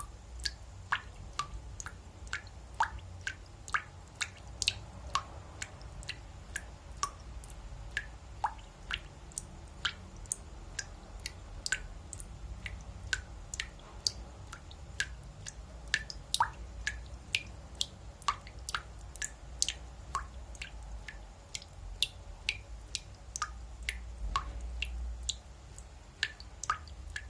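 Leaking bathtub faucet dripping: water drops plinking in quick, irregular succession, about two to three drips a second.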